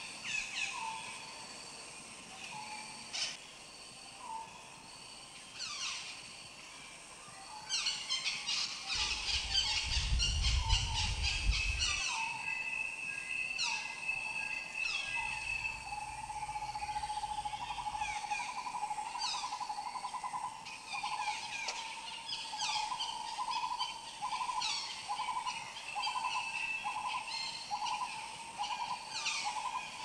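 Wild birds calling: many short falling chirps repeated throughout, a long steady whistled note in the middle, and a quick pulsing trill in the second half. A brief low rumble comes about ten seconds in.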